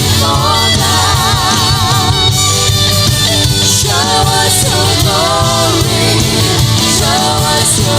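Worship music: a full band playing with singing, the voice holding long notes with vibrato.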